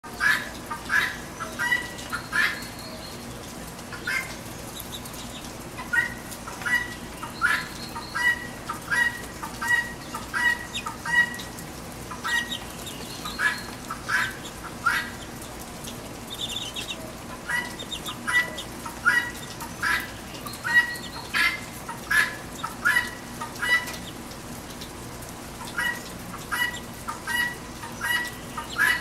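Guinea hen (helmeted guineafowl) squawking harshly over and over, in bouts of rapid repeated calls with short pauses between, over a steady hiss of rain.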